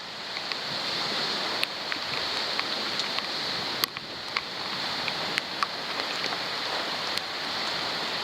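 Thunderstorm rain and wind noise swelling over the first second into a steady rush, with many sharp ticks of raindrops striking the waterproof camera.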